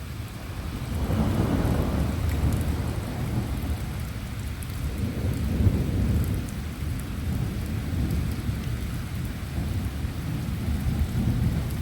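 Rolling thunder: a long low rumble that builds about a second in and swells again around the middle, over steady rain.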